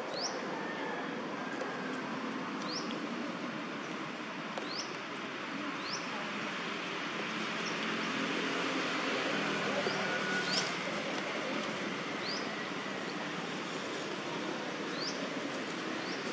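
Steady outdoor forest ambience with a high, short, upward-sweeping bird chirp repeated about every two seconds.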